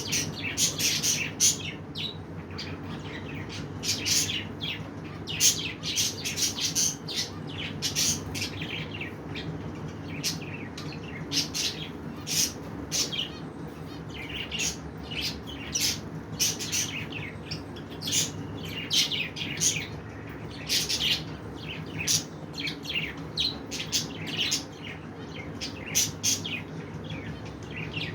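Caged budgerigars and finches chirping and twittering: many short, high calls coming irregularly, one after another, over a steady low hum.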